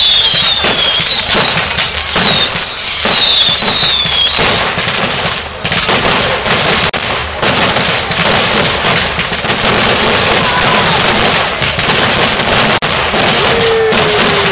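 Fireworks display: several whistling fireworks, each a high whistle falling in pitch, over dense crackling for the first four seconds or so. After that comes continuous crackling and popping.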